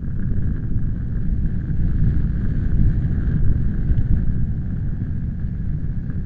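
Strong wind buffeting the microphone: a loud, uneven low rumble that swells and eases in gusts, with a fainter hiss above it.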